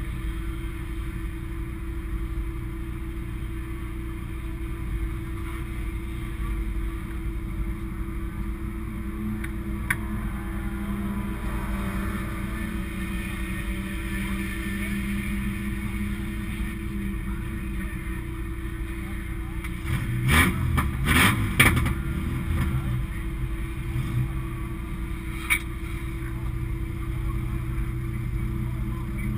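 Race car's engine idling steadily, heard from inside its stripped-out cabin. About twenty seconds in comes a brief cluster of loud knocks and rattles.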